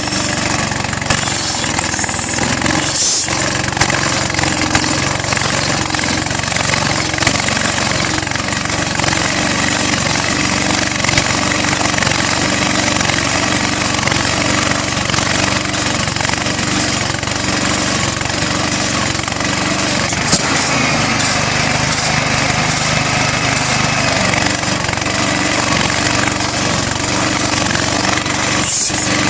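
Southpenn 20 HP hit-and-miss flywheel engine running steadily on propane, a loud, continuous mechanical noise.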